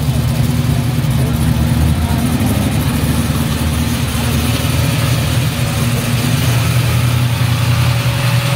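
Turbocharged Fox-body Ford Mustang drag car's engine idling, loud and steady.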